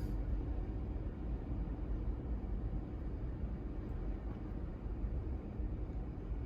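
Steady low rumble of surf from typhoon swell breaking on the beach.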